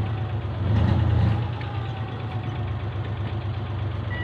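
Suzuki 12-valve engine idling steadily, its hum swelling briefly about a second in.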